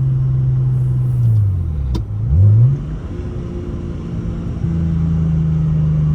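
Straight-piped, big-single-turbo BMW N54 straight-six running steadily, then the revs fall away about a second in, a click, and a quick loud rev blip as the car is downshifted into second gear, after which the engine settles back to a steady run.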